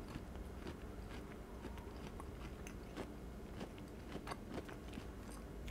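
A man chewing a mouthful of crisp-tender broccoli with his mouth closed: faint, irregular soft crunches.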